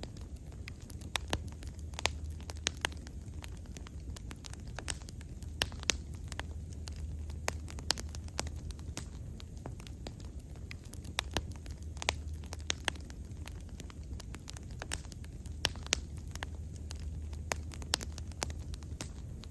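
Wood fire burning, with frequent sharp, irregular crackles and pops over a low, steady rumble.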